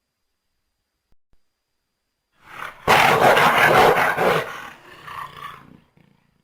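Jaguar calling: after a couple of seconds of silence, one rough call about three seconds long, loudest at first and fading away near the end.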